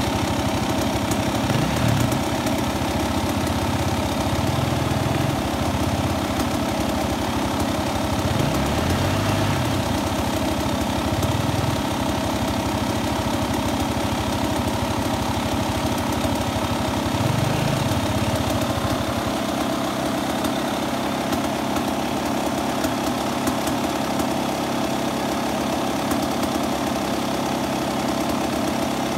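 Enduro motorcycle engine idling steadily, with a few brief low swells in its rumble during the first twenty seconds or so.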